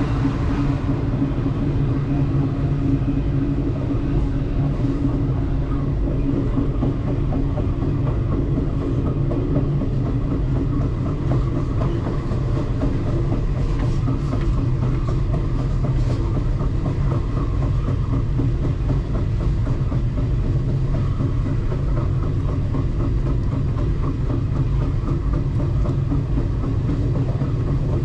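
Alaska Railroad passenger train running along the track, heard from the rear of the train: a steady, loud rumble of wheels on rail, with a few faint clicks about halfway through.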